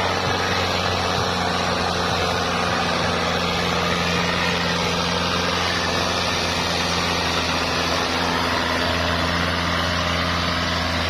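Fiat 640 tractor's diesel engine running steadily at an even speed.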